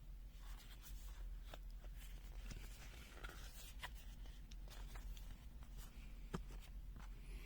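Faint handling noise: a few light clicks and some rubbing as a multimeter and its soft case are handled.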